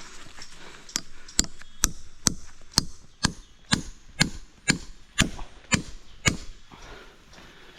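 Steady chopping strokes, about two a second, some dozen blows that stop about six seconds in.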